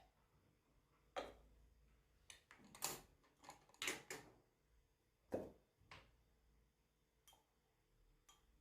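A series of irregular light knocks and clicks, about ten in all, the strongest in the first half and a few faint ones near the end.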